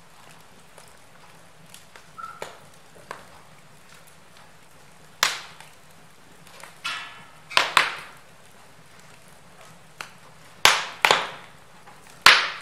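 Logs burning in a fireplace: a few faint crackles, then about six loud sharp pops in the second half, each dying away quickly.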